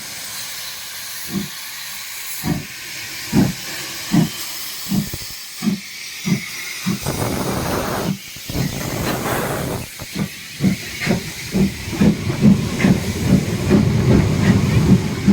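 Steam locomotive pulling away, its exhaust chuffs coming faster and faster, with a stretch of steady steam hissing about halfway through.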